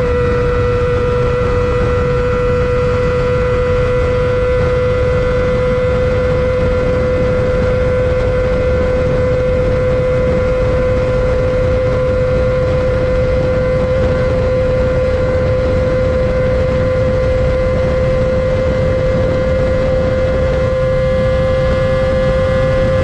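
Kawasaki ZX-25R's 250 cc inline-four engine screaming at high rpm, held near steady at speed. Its high-pitched whine dips slightly at the start, then creeps gradually higher, over a low rush of wind noise.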